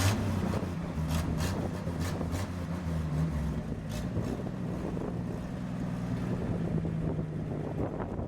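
The 1962 Ford F-350's engine running steadily, with a few sharp clicks and knocks in the first half.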